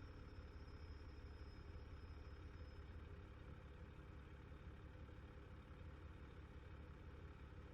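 Faint, steady low rumble of a fire engine's diesel engine idling, with a thin high tone that stops about three seconds in.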